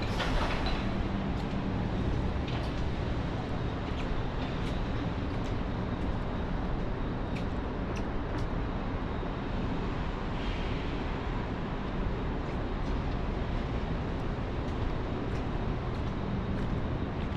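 Street traffic on a wet city street: a steady rumble and hiss of passing vehicles, with scattered light ticks throughout.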